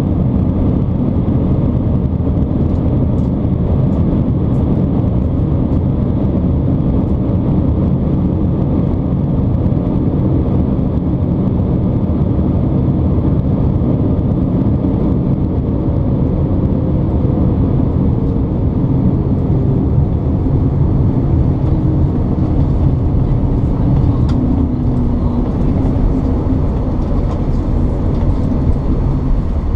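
Boeing 787-9 Dreamliner cabin noise on approach: a steady low rumble of engines and airflow. In the second half a faint tone slowly falls in pitch.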